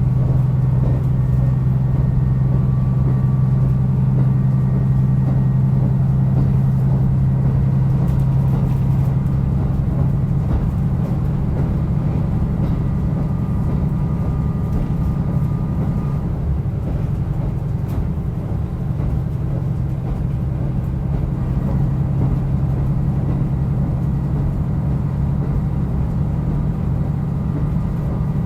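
Diesel railcar running on the line, its engine drone and the wheels on the track rumbling steadily. About ten seconds in, the steady engine note gives way to a rougher running rumble.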